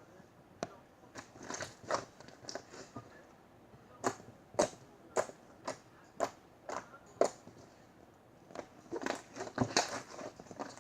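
Cupcake slime being squeezed and pressed by hand, giving irregular sticky pops and clicks with short crackly stretches.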